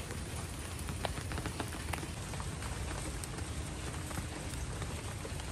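Rain falling steadily, with scattered single drips and splashes standing out from the hiss.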